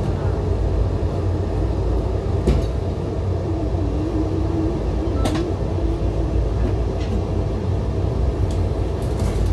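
Steady low rumble of a moving passenger train heard from inside the coach, with a few sharp clicks and knocks from the running gear.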